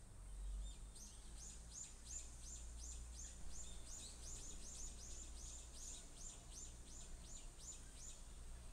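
A bird singing in the background: a long run of quick, high, downward-slurred notes, about three a second, over a faint low rumble.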